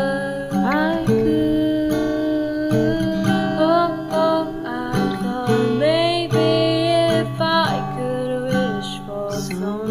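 Acoustic guitar playing a slow song, with sustained notes and a few upward slides in pitch.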